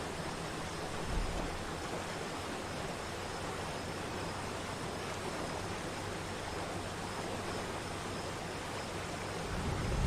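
Steady rush of falling water from a waterfall, an even hiss with no pauses, with a brief low thud about a second in.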